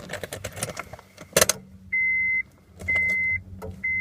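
Car keys jangling and a key going into the 1996 Honda Accord's ignition, with a sharp click as it is turned. The dashboard warning chime then beeps three times, about once a second, on a single high tone.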